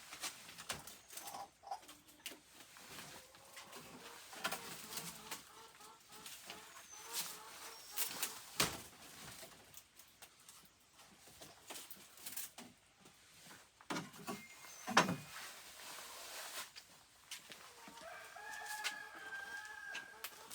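Chickens clucking, with a longer held call near the end like a rooster crowing, among scattered sharp knocks and clicks.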